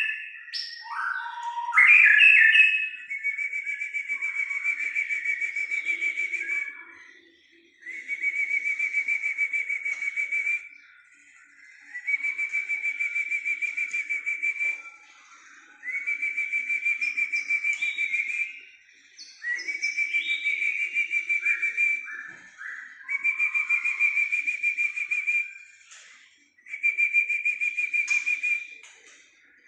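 A bird's song of rapid trills, each held on one steady high pitch for about three seconds, repeated about seven times with short gaps and a few brief chirps between them. It is played as a lure to get a white-rumped shama to sing along.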